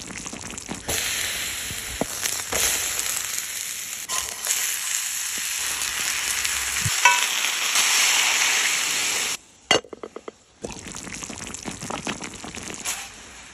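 Chicken sizzling in a skillet on a grill, a steady frying hiss. It drops out suddenly about nine and a half seconds in, with a few sharp clicks, then comes back quieter.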